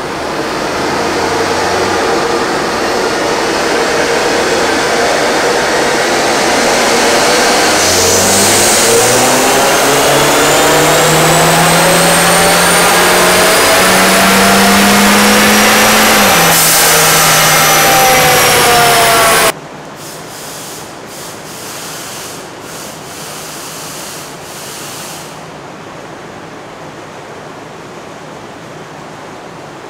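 2013 Hyundai Veloster Turbo's turbocharged 1.6-litre four-cylinder engine at full throttle on a chassis dyno, revs climbing steadily through the gears, with gear changes about eight and sixteen seconds in. The engine sound cuts off abruptly about twenty seconds in, leaving a quieter steady hiss.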